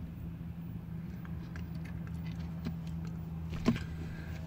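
Faint, scattered wet mouth clicks from chewing a juicing plug of chewing tobacco, over a steady low hum in a car cabin, with one slightly louder click near the end.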